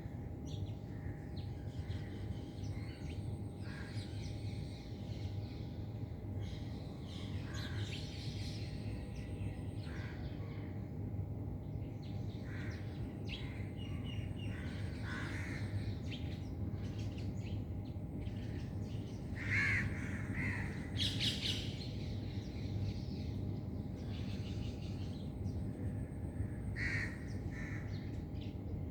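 Birds calling and chirping on and off over a steady low hum, with a few louder calls about two-thirds of the way in.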